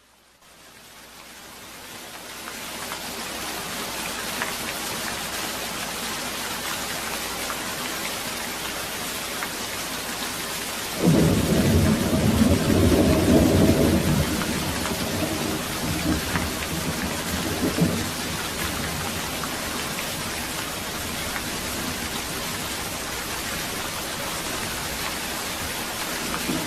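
Steady rain hissing, fading in from near silence over the first few seconds. About eleven seconds in, thunder breaks suddenly and rumbles for several seconds before dying away, leaving the rain.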